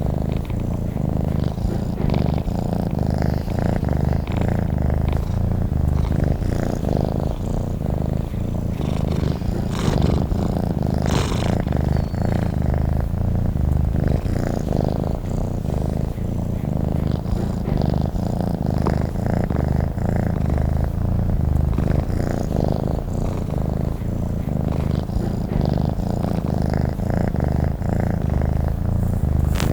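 Domestic cat purring close up: a steady, low, evenly pulsing purr that carries on without a break.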